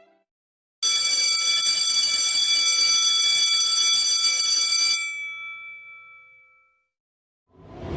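An alarm bell ringing: it starts suddenly with a steady high-pitched ring for about four seconds, then stops and rings out. A whoosh sound effect begins near the end.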